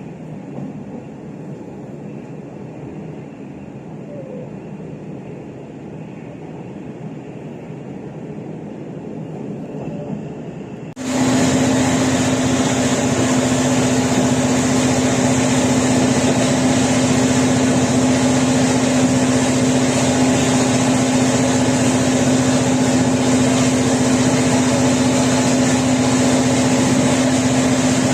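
Steady running noise of a moving train. About 11 seconds in, it cuts abruptly to the much louder, steady engine drone of the local train's diesel-electric locomotive, a constant low hum with a hiss above it.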